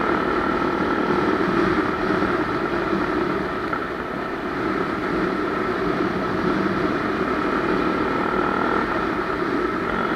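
Honda Tornado 250's single-cylinder four-stroke engine running steadily under a constant rushing noise.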